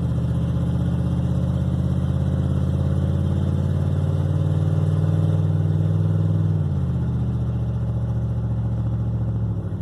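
Vehicle engine heard from inside the cab while driving on the highway: a steady drone whose pitch steps down twice, at about two-thirds of the way and again near the end.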